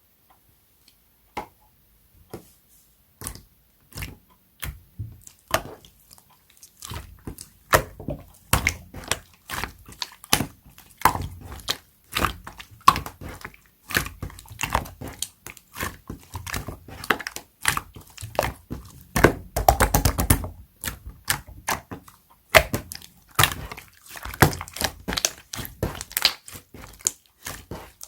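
Clear slime being squeezed and worked by hand, giving wet clicks and pops. The clicks are sparse for the first few seconds, turn dense and rapid after about seven seconds, and run together almost continuously around twenty seconds in.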